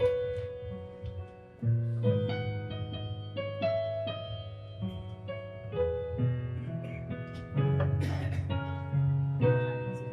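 Piano playing the instrumental introduction of a worship song: held chords over a bass line, the harmony changing every second or two.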